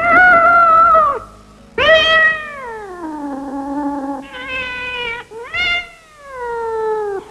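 Kitten meowing: four long, drawn-out meows one after another, the second sliding down in pitch, the others ending in a downward fall.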